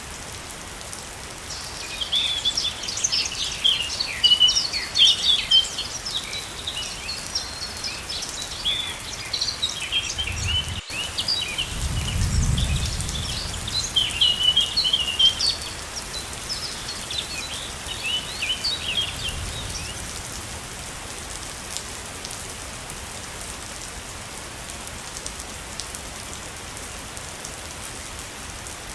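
Steady rushing of a waterfall, with birds chirping in quick, overlapping bursts from early on until they fade out about two-thirds of the way through. A brief low rumble comes near the middle.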